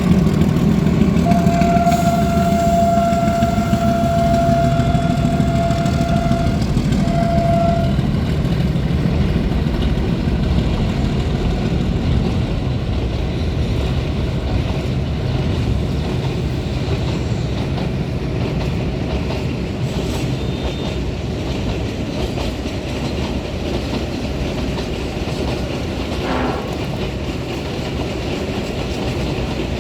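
Freight train hauling gasoline tank wagons rumbling along the track. Its horn sounds one long blast about a second in and a short blast around seven seconds. The rumble slowly fades after that.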